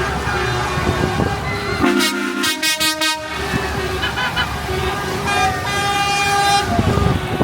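Truck horns sounding in several blasts of different pitches, among them a few short toots and a longer held blast near the end, over the engines of passing lorries.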